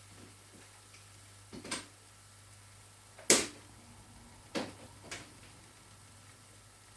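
Kitchen handling sounds: a handful of short sharp knocks and clicks, the loudest about three seconds in, over a faint steady low hum.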